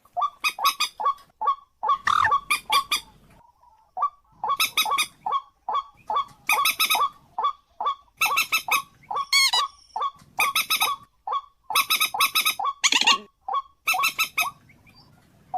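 A bird calling over and over: short, sharp notes in quick runs of four or five, a new run every second or two, with a sliding note about nine seconds in and a longer note near the end.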